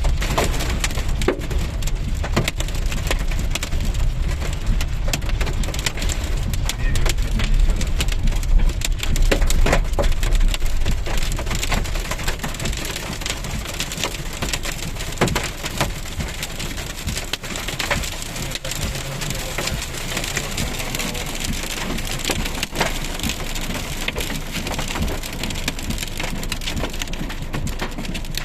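Heavy rain falling, a dense, loud spatter of countless drops. A low rumble sits under it for about the first twelve seconds, then fades.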